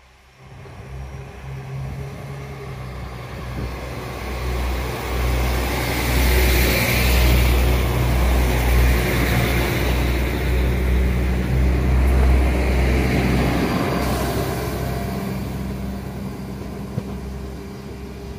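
A Northern passenger train running through the station alongside the platform: a low rumble of engine and wheels on rails that builds as it approaches, is loudest as the carriages pass close by, then fades as the train moves away.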